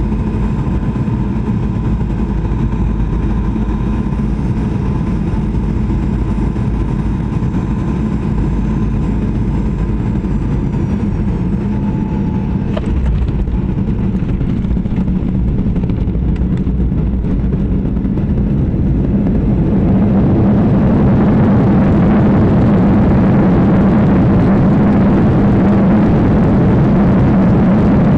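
Steady droning of an aircraft, with thin high whines that fall in pitch about ten seconds in; the drone grows louder and fuller from about twenty seconds in.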